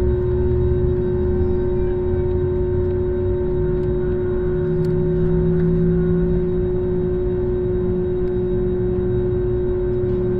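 Airbus A321neo's Pratt & Whitney geared turbofan engines running at ground idle after start, heard inside the cabin over the wing: a steady hum with one strong held tone and fainter higher whines over a low rumble.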